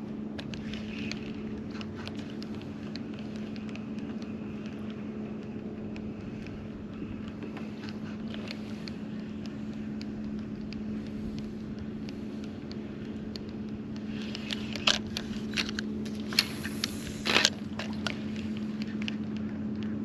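A boat motor running with a steady, even hum. Several sharp clicks and knocks come in a cluster near the end.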